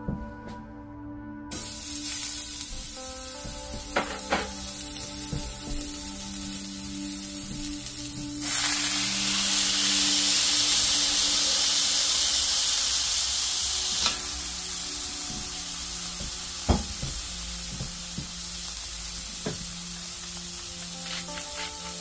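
Smash burgers frying in a cast iron skillet: a steady sizzle that starts about a second and a half in and grows louder for several seconds mid-way, broken by a few sharp knocks.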